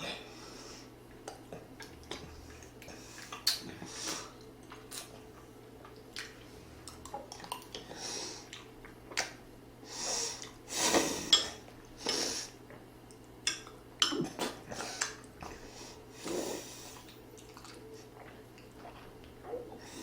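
Eating sounds: chewing and heavy breathing, with short, irregular clinks of utensils against dishes.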